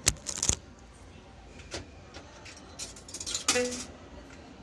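Coins being fed into a coin-operated kiddie ride's coin mechanism: a few sharp clicks, then a clatter of metallic clicks about three seconds in.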